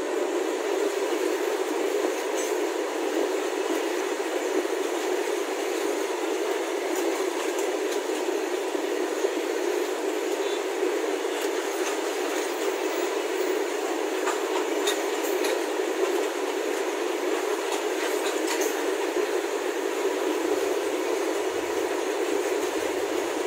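A freight train's covered goods wagons rolling past, giving a steady rolling noise from the wheels on the rails with a few faint clicks scattered through it.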